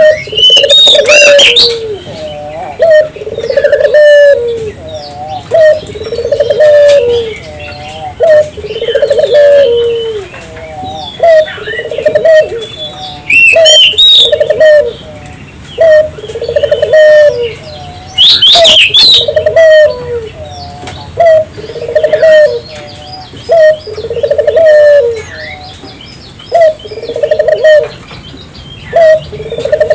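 Barbary dove (burung puter) cooing steadily in full song, one loud coo phrase every second or two. Brief bursts of high chirping from small birds cut in about a second in, near the middle, and again around two-thirds of the way through.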